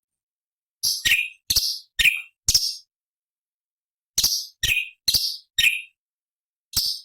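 Orange-bellied leafbird giving short, sharp, harsh call notes about two a second, in a run of five, a pause, a run of four, then one more near the end.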